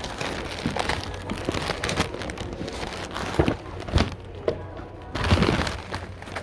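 Rustling and crinkling of things being handled, with a few louder knocks about three and a half, four and five and a half seconds in, over a low steady hum.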